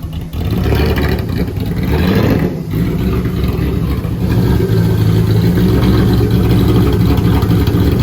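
Supercharged engine of a drag police car running on a chassis dyno, with small swells in engine speed in the first few seconds, then running steadily.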